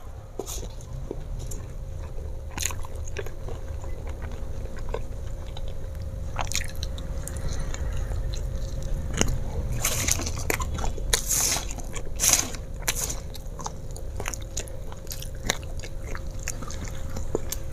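Close-up chewing and crunching of crispy flour-coated fried potato sticks, with irregular crackling bites that grow densest and loudest about ten to thirteen seconds in.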